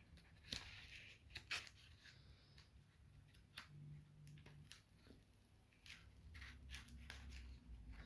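Faint crinkling and scattered sharp little crackles of vinyl decal film being handled and pressed onto a bucket, the two loudest about half a second and a second and a half in.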